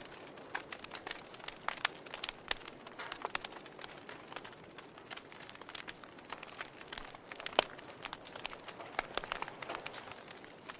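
Wood fire crackling in a fireplace: irregular sharp pops and snaps over a soft hiss, with one louder pop about two-thirds of the way in.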